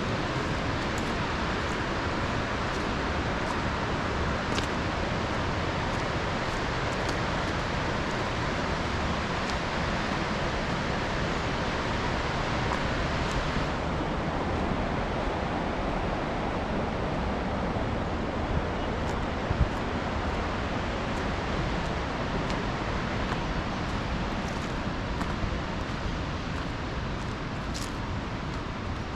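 Steady rushing noise with a few faint ticks; its higher part softens about halfway through.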